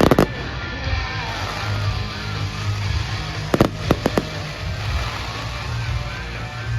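Fireworks going off: a few sharp bangs right at the start and a quick cluster of four about three and a half seconds in, with music playing throughout.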